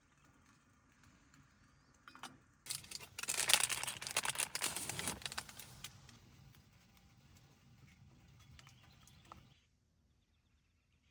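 Loud crinkling rustle lasting about three seconds, over faint background noise that cuts off suddenly near the end.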